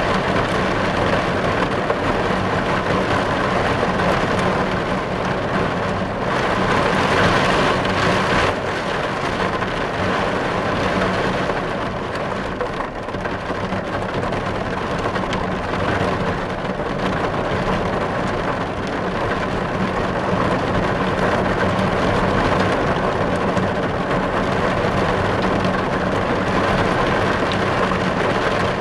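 Heavy rain drumming steadily on a car's windows and roof, heard from inside the car. It swells slightly for a couple of seconds about a quarter of the way in.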